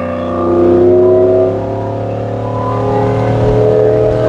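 2002 Chevrolet Silverado pickup's engine and exhaust pulling under acceleration, heard from inside the cab: the engine pitch climbs steadily through a gear over a steady low road hum.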